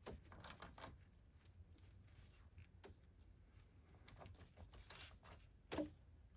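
Faint, scattered metallic clicks and clinks of a socket wrench and oil filter wrench at work on a spin-on oil filter, as the filter is broken loose.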